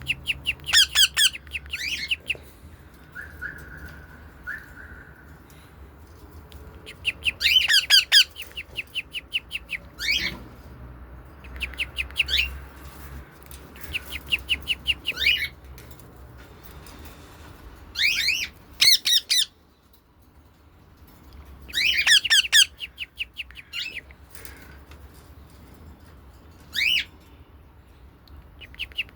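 Caged pet birds calling in short bursts of rapid, repeated shrill squawking notes, a burst every few seconds.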